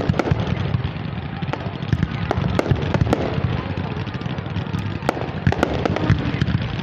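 Fireworks display going off: many bangs and pops in quick, irregular succession over a continuous crackle, with no pause.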